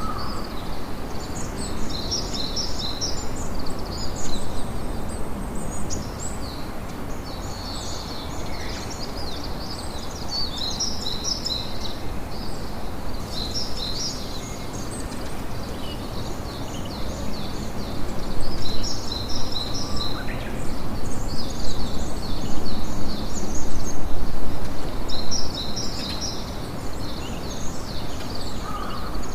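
Campfire crackling steadily, with small birds chirping repeatedly throughout; the fire gets louder for several seconds past the middle.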